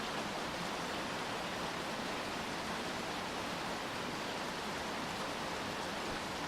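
Steady rainfall, an even hiss with no separate drops or changes.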